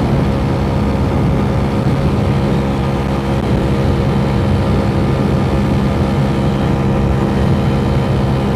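Dongfang DF50SST scooter engine, fitted with an 88cc big-bore kit, running steadily at high revs at about 45 mph cruising speed. Wind rushes over the microphone.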